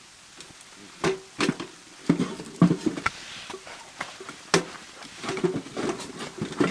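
Irregular sharp knocks and clatter of hard objects being handled, several in quick succession, the loudest a little after two and a half seconds and another about four and a half seconds in.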